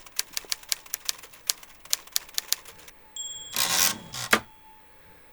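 Manual typewriter keys clacking in a quick, uneven run for about three seconds. The margin bell then dings, the carriage is swept back with a short swish, and it stops with a loud clack.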